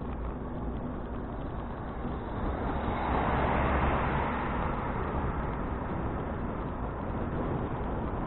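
Steady wind and riding noise from a touring bicycle ride, picked up by an action camera's microphone. A louder rushing sound swells about three seconds in and fades a couple of seconds later.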